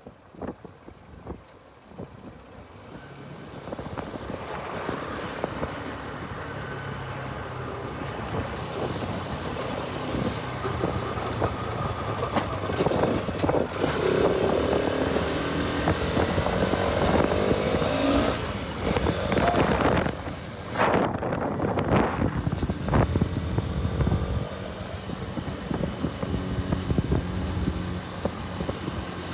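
Bajaj Pulsar RS200 motorcycle engine running under way, its pitch rising and falling with the throttle, over wind noise on the microphone. It grows louder a few seconds in.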